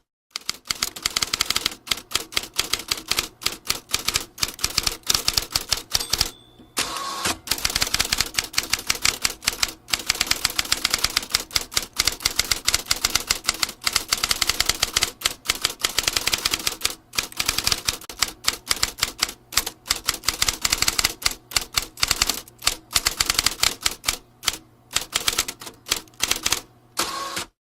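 Vintage typewriter being typed on: a fast, continuous run of sharp keystroke clacks, broken by a brief pause about six seconds in and another near the end.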